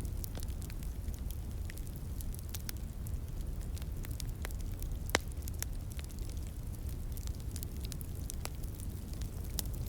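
Wood fire crackling, with many small irregular pops and one sharper pop about five seconds in, over a steady low rush of a flowing stream.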